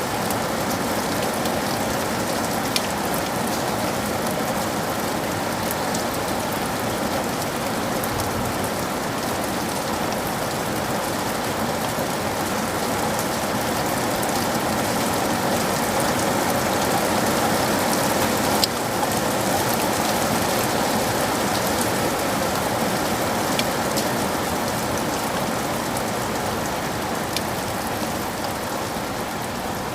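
Steady rain falling on surfaces, a dense even hiss with scattered individual drop ticks, swelling slightly in the middle and easing toward the end.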